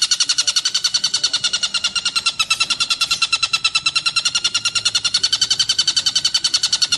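Tengkek buto kingfisher calling in a fast, unbroken rattling trill of about ten sharp, high notes a second, wavering slightly in pitch.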